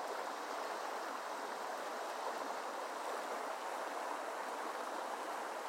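Creek water running steadily over rocks, an even rushing babble.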